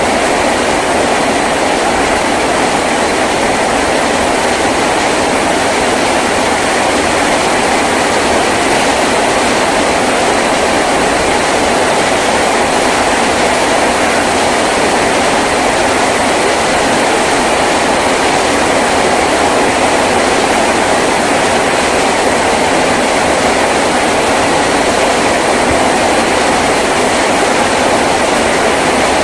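Heavy rain falling on a tin roof, a loud, steady, unbroken hiss with no single drops standing out.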